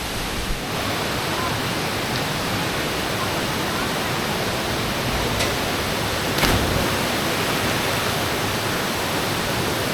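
Waterfall rushing, a steady unbroken roar of falling water, with a single knock about six and a half seconds in.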